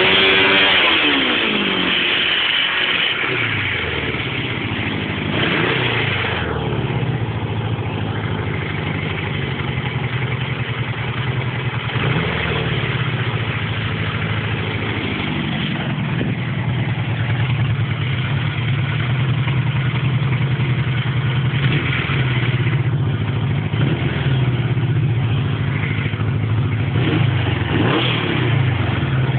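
1979 Suzuki GS550's air-cooled inline-four engine running: revs dying away to idle over the first few seconds, then a steady idle with a few short throttle blips, the last one rising near the end.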